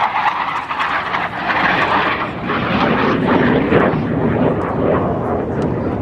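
Jet noise of a Blue Angels F/A-18 Hornet passing overhead, its twin turbofans loud, the pitch dropping partway through as it goes by.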